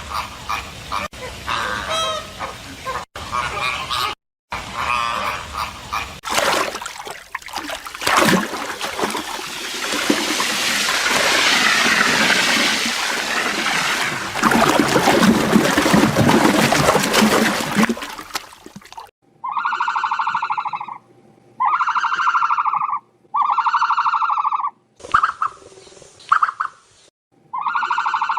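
A run of recorded animal calls: short calls at first, then a long noisy stretch, then one call repeated about six times, each about a second long and evenly spaced.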